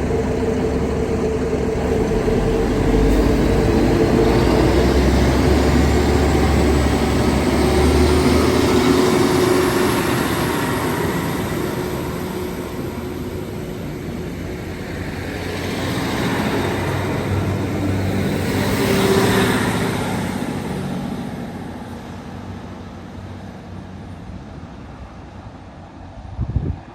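Diesel multiple-unit train pulling away from a station: its engine runs hard under power with a rising whine, then the noise swells once more as it moves off and fades into the distance.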